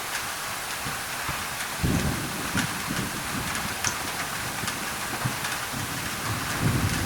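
Rain falling on a thin tin roof, with many individual drops ticking over a steady hiss of white noise. Low rumbles of thunder come in about two seconds in and again near the end.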